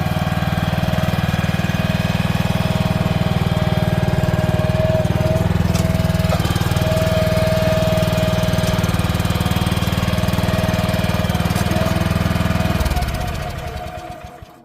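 Small engine of an agricultural transport carrier running steadily with a rapid throb and a high whine over it, then shut off near the end and dying away.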